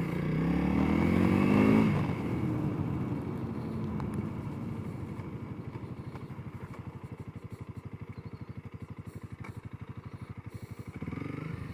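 Honda CRF300L's single-cylinder four-stroke engine pulling away, rising in pitch for about two seconds, then easing off and settling into a steady idle with even pulsing beats. It swells briefly again near the end.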